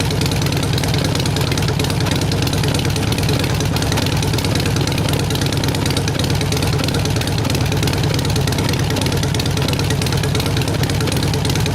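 A 2008 Harley-Davidson Nightster's air-cooled 1200 cc V-twin is idling steadily through Vance & Hines Shortshots pipes. The pipes have had the crossover pipe cut out, and are heat-wrapped with washers fitted.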